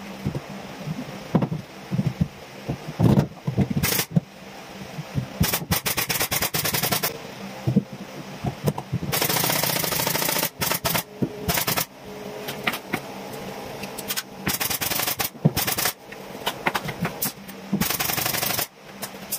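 Pneumatic nail gun firing over and over, single shots and quick runs, with a few longer noisy bursts in between.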